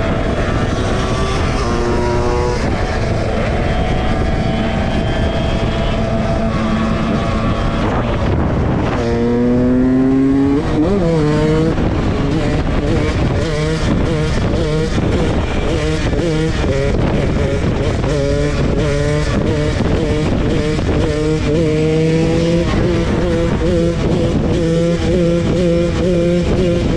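Dirt bike engine running under way. The revs drop about eight seconds in, then climb sharply, then rise and fall repeatedly.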